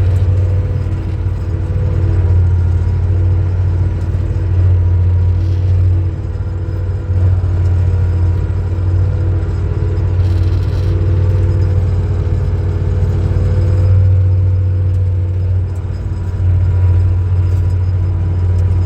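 Farm tractor engine running steadily, a strong low drone with a steady whine above it, easing off briefly twice.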